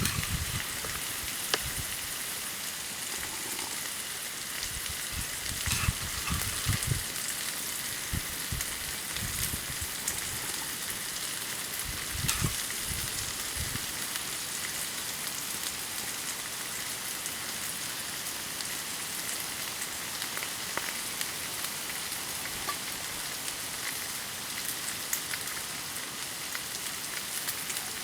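Campfire burning: a steady hiss with scattered small crackles and pops. There are a few soft low bumps in the first half.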